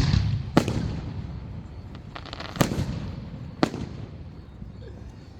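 Aerial fireworks shells bursting overhead: four sharp bangs in under four seconds, the first two about half a second apart, each followed by a rumbling echo, with faint crackling just before the third.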